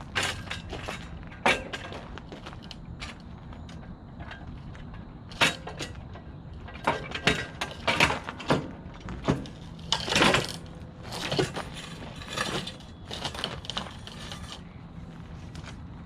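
Irregular clanks, clicks and knocks of a 36-inch commercial mower being handled, with a longer scraping rattle about ten seconds in.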